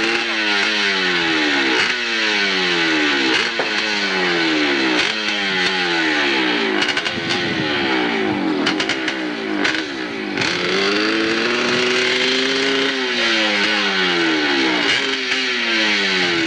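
Competition hillclimb motorcycle engine at high revs, its pitch repeatedly sliding down and snapping back up about once a second. About two-thirds of the way in it climbs and holds high for a couple of seconds, then drops off.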